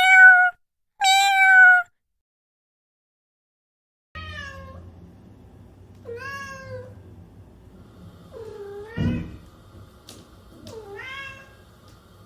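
Domestic cat meowing: two loud meows close together, a pause, then a run of four quieter, drawn-out meows about two seconds apart over a low steady hum, with a short knock partway through.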